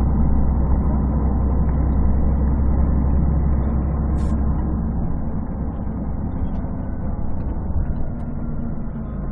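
Scania DSC11 diesel engine and drivetrain of a 1998 Scania CN113CLL city bus heard from inside while riding, a deep, bass-heavy rumble muffled by a partly covered phone microphone. The engine note eases and gets a little quieter about halfway through.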